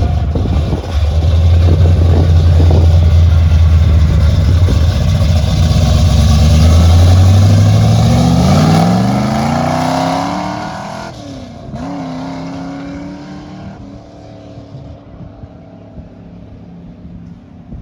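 A car engine running loud and steady at a low pitch, then rising in pitch as it accelerates about eight seconds in, and fading away. A quieter, steady engine hum remains afterwards.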